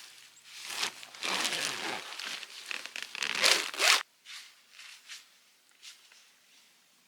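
A zipper being pulled with fabric rustling, in a run of scratchy strokes lasting about four seconds.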